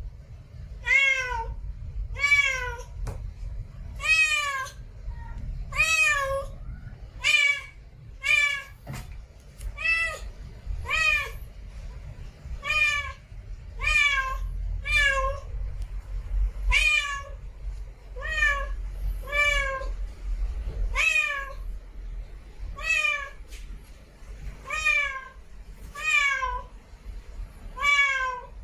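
Domestic cat meowing over and over, short meows about one a second, each dropping in pitch at its end.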